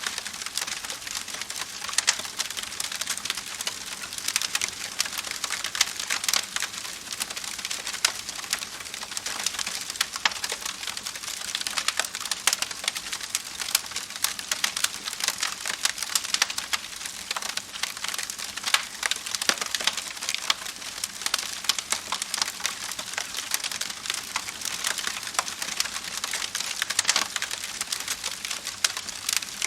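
Campfire of burning wood crackling steadily, with a constant soft hiss and many sharp pops and snaps.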